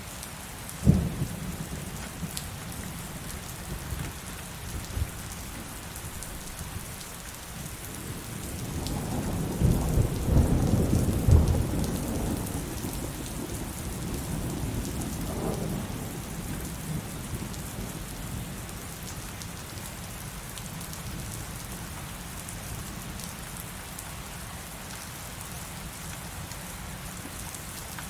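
Heavy rain falling steadily in a thunderstorm. A sharp thunder crack comes about a second in; from about eight seconds in, a long roll of thunder builds, peaks a few seconds later and fades away.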